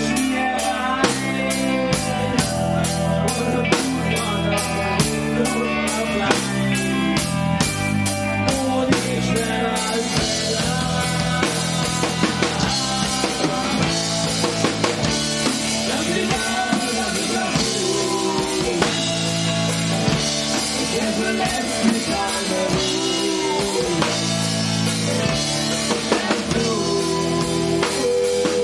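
Rock band playing live: a drum kit keeping a steady beat under a stepping bass line, with a melody line over them.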